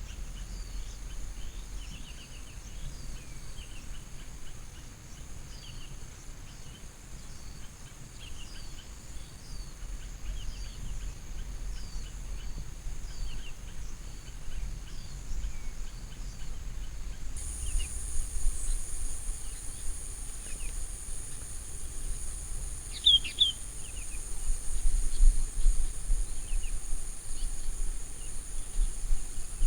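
Outdoor mountain ambience: small birds chirping in short, quick calls over a steady high-pitched insect drone, with a second, higher insect tone joining about two-thirds of the way through. A low rumble sits underneath and grows louder near the end.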